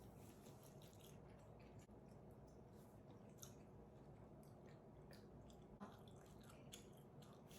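Faint chewing of food, with scattered soft mouth and eating clicks, a few slightly sharper around the middle and latter part.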